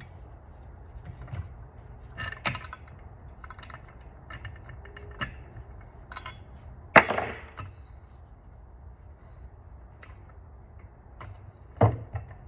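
Hand tools and metal parts clinking and knocking while an engine-stand mounting plate is bolted to a Honda F22C engine block. The loudest is a single sharp metal clank about seven seconds in, with another near the end.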